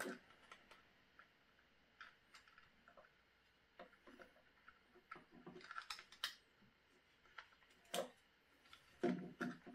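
Scattered faint clicks and taps of hands working the plastic parts of a Bambu Lab X1 Carbon 3D printer while fitting its touchscreen, with a cluster about six seconds in and the loudest knocks near the end.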